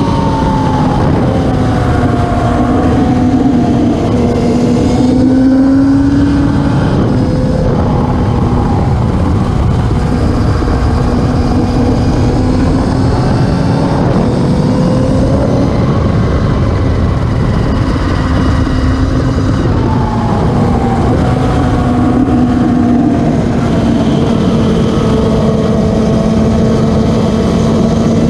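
Classic superbike racing motorcycle engines running hard at high revs, one continuous loud engine note whose pitch sweeps down and back up several times as the bikes change speed.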